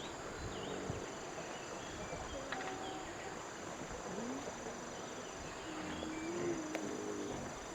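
Outdoor rural ambience: insects shrilling in steady high tones that fade in and out, with scattered short chirping calls over a soft hiss.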